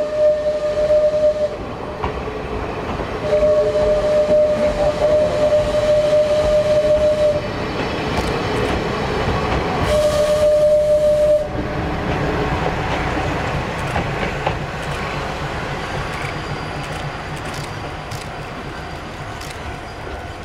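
A sightseeing trolley train passing on the Kominato Railway: its locomotive sounds three long single-note whistle blasts, the second the longest and the last short, over the rumble and clatter of the wheels on the rails, and the running noise then fades as the train moves away.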